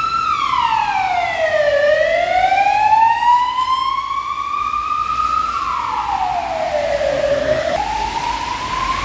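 Emergency vehicle siren wailing in slow sweeps: the pitch falls over about two seconds, then climbs for longer. This happens twice, and near the end the pitch jumps back up.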